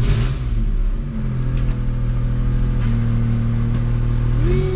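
Geo Metro XFi three-cylinder engine running at raised revs in first gear with no axles fitted, so the engine and transmission spin unloaded. The note shifts about a second in and rises near the end.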